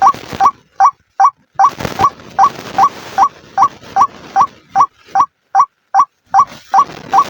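White-breasted waterhen (ruak-ruak) calling: one short note repeated steadily, about two and a half times a second, as used in a bird-trapping lure recording.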